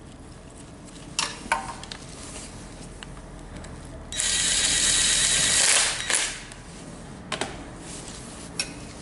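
A sharp hiss of escaping air lasting about two seconds, with a few metallic clicks of tools and fittings before and after it.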